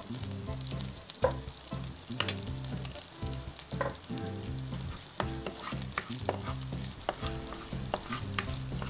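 Diced onion and garlic sizzling in hot oil in a nonstick wok. A wooden spatula stirs them, scraping and tapping against the pan about once a second at irregular moments.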